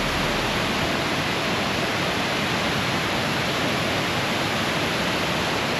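A waterfall making a steady, even rushing of falling water.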